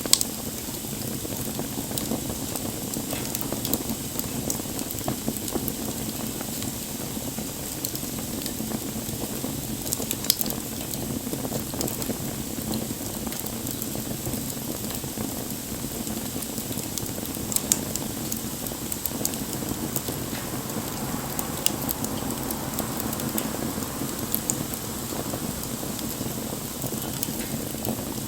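Wood fire burning: a steady crackle with scattered sharp pops, the loudest right at the start and around ten and eighteen seconds in.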